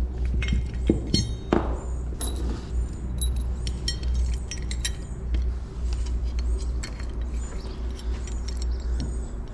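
Small metal lock parts and keys clinking and tapping: a string of short sharp clicks with a light metallic ring, over a steady low hum.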